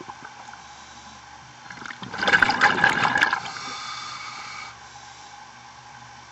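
Scuba diver's exhaled bubbles gurgling out of the regulator in one burst about two seconds in, lasting about a second and a half and fading away, over a steady underwater hiss and hum.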